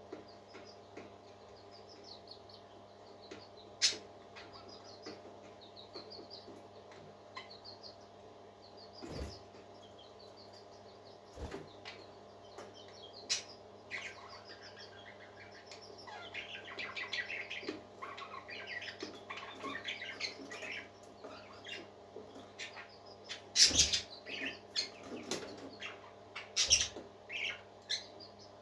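Parakeets chirping and warbling: scattered short chirps at first, then denser, busier chattering from about halfway on. A few sharp thumps cut across, over a steady low hum.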